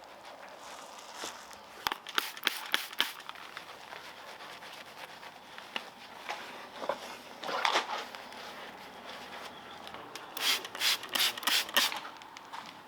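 Detailing brush scrubbing a car's trim in short bursts of quick strokes, several a second, with pauses between the bursts.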